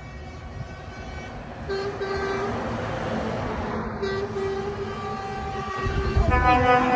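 Truck air horns sounding in two long blasts over the low rumble of truck engines. Near the end the engine rumble swells and a different, higher-pitched horn joins in.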